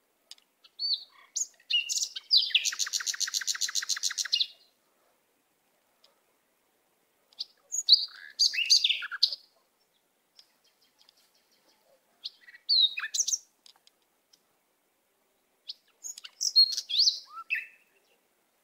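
Forest birds calling in four separate bouts of chirps and whistles, the first holding a fast, even trill of about ten notes a second.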